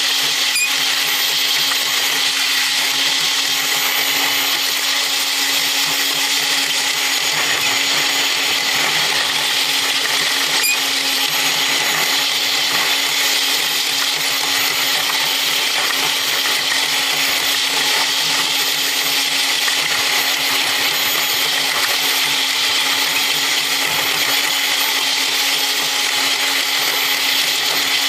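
Running noise of a diesel railcar sped up eight times: a steady, high-pitched whir with a constant hum beneath it.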